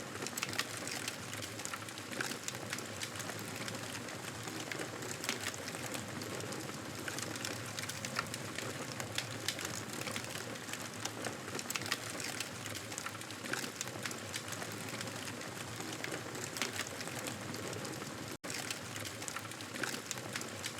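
Campfire burning: a steady hiss with frequent small sharp crackles and pops of burning wood. The sound drops out for an instant near the end.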